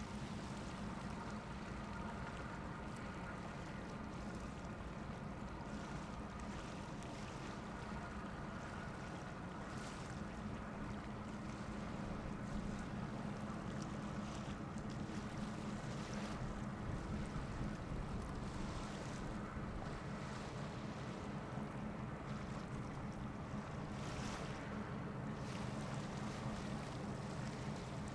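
Ship diesel engines droning steadily, with wind gusting on the microphone now and then.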